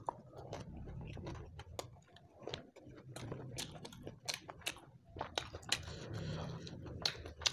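Close-up chewing and lip-smacking of a person eating spicy shrimp and rice by hand, with many short wet clicks from the mouth.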